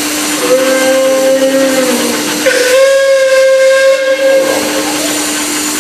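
Steam locomotive whistle giving two blasts, a shorter one then a longer one, over a steady background hum.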